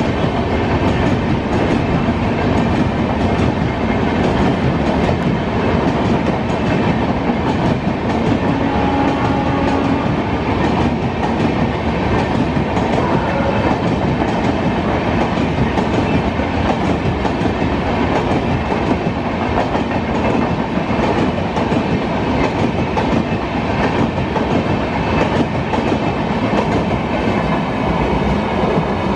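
Coaches of a long express passenger train running past close by, a steady loud noise of wheels on the rails that eases as the last coach goes by near the end.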